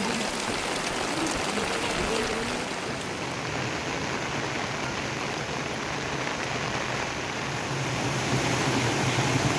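Rain falling steadily, an even hiss of water. A low steady hum joins about eight seconds in.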